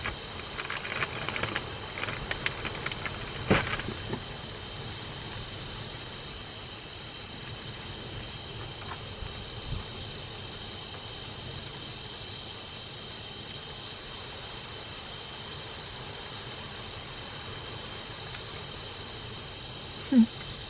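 Crickets chirping steadily: a high, even pulse about two to three times a second over a constant high trill. A few light clicks and knocks sound in the first few seconds, the loudest about three and a half seconds in.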